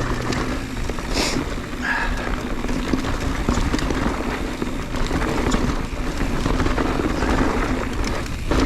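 Mountain bike descending a rocky dirt trail: a steady noise of tyres rolling over dirt and rock, with scattered clicks and rattles from the bike.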